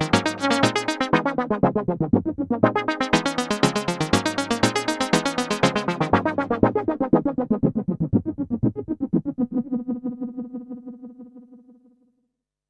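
Korg Minilogue XD analog/digital polyphonic synthesizer playing one of its factory presets with no effects: a fast, even stream of short repeated notes that dies away to silence over the last few seconds.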